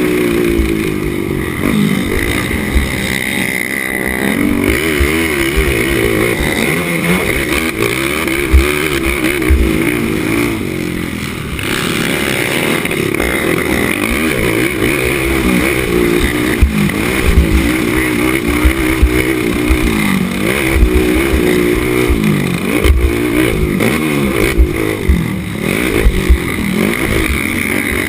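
Racing ATV engine running hard, its pitch rising and falling constantly as the rider throttles on and off around the track.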